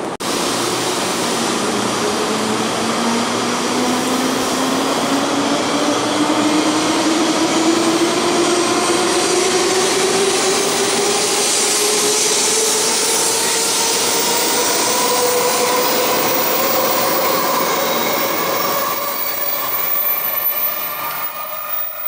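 Taiwan High Speed Rail 700T electric train pulling out of the platform and accelerating: a whine from its electric traction motors climbs steadily in pitch over rushing rolling noise. It fades near the end as the train enters the tunnel.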